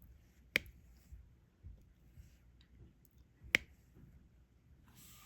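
Two sharp clicks about three seconds apart, with a few faint ticks between them: a diamond painting drill pen tapping drills onto the sticky canvas.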